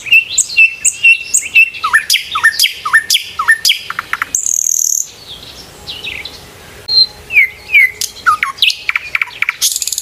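Several birds chirping and calling: quick high chirps and a repeated call that drops sharply in pitch, about two a second, with a short high hiss just over four seconds in and a quieter stretch after it.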